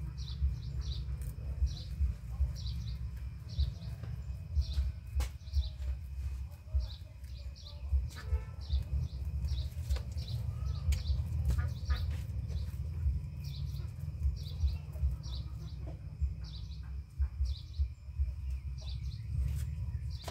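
A small bird chirping in a steady, regular series, a short high chirp every half second or so, over a low rumble with soft irregular thumps.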